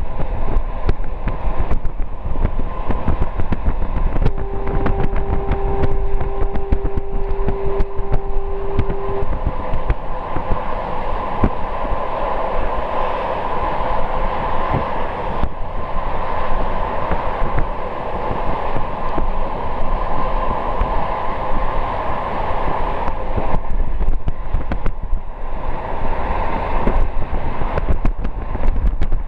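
Train running at speed, heard from on board: steady rumble and rush with dense irregular rattling of wheels on the rails. About four seconds in, a steady single-pitched tone sounds for about five seconds.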